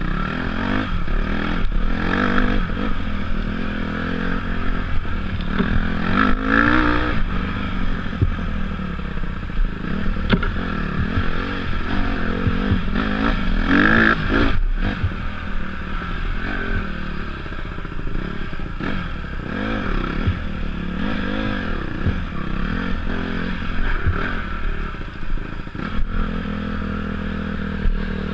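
Dirt bike engine being ridden, its revs rising and falling over and over, with clattering and scraping knocks throughout.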